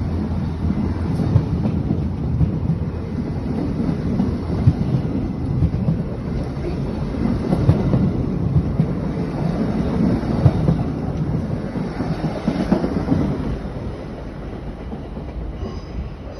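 RE 6 regional express train rolling past as it pulls out: a steady rumble of wheels on rail with irregular clacks over joints and points. It fades away over the last few seconds.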